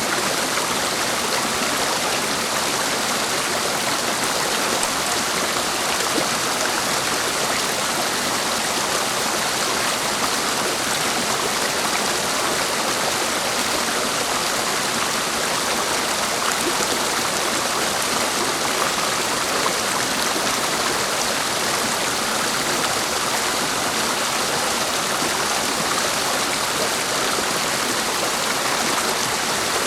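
Clear mountain stream rushing steadily over rocks, an even, unbroken splashing hiss.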